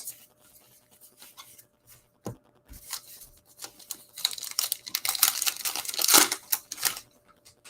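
A trading card pack wrapper being torn open and crinkled. There are a few light taps and a single knock first, then a burst of crackling tearing that is loudest near the end.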